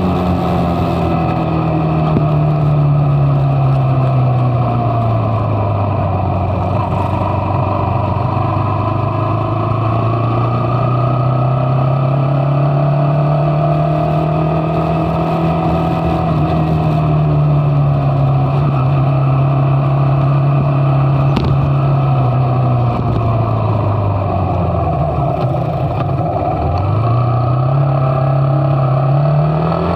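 Motorcycle engine running under way, its pitch slowly falling and rising with the throttle. About three-quarters of the way through it drops to a low note, then climbs again near the end.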